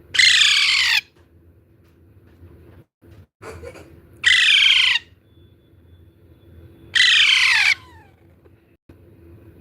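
Baby parrot calling: three loud, harsh calls, each under a second long and falling in pitch, about three seconds apart.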